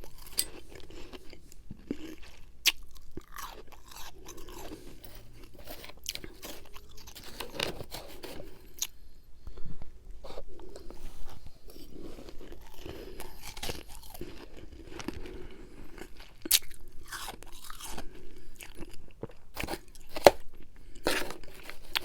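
A person chewing a mouthful of freezer frost mixed with humidifier ice close to the microphone. There is a steady chewing rhythm with irregular sharp, crackling crunches as the ice breaks between the teeth.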